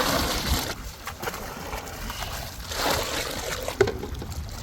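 Water splashing and sloshing in two surges, the second about two and a half seconds after the first, as things are washed by hand in spring water. A short knock comes near the end.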